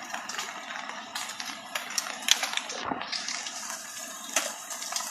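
Rushing floodwater: a steady, noisy rush with scattered knocks and clatters, a sharper one a little over two seconds in and another near four and a half seconds.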